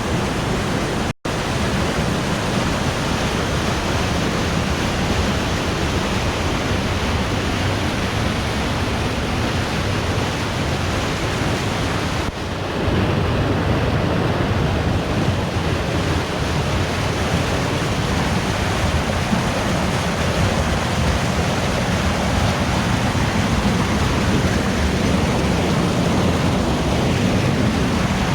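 Waterfall rushing in a steady roar of water, with a momentary dropout about a second in and a little louder from about halfway through.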